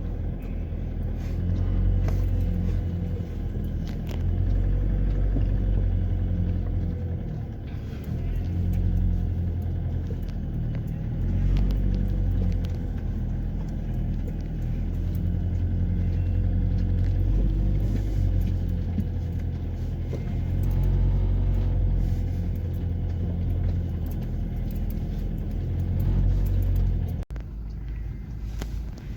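Car driving, with a steady low road and engine rumble. It cuts off suddenly near the end to something quieter.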